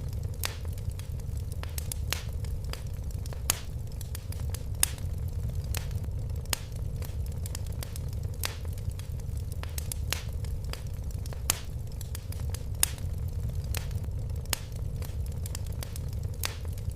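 Fire crackling in a fireplace: irregular sharp pops and snaps, one or two a second, over a steady low rumble.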